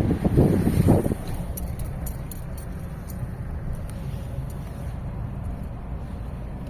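Car on the move: a steady low road rumble, louder for about the first second, with a few faint ticks.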